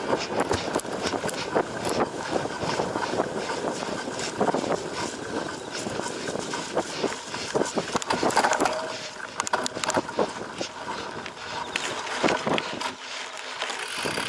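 Cyclocross bike ridden fast over a bumpy dirt and grass course: a steady rush of tyre and wind noise with constant rattling and knocking as it jolts over the ground.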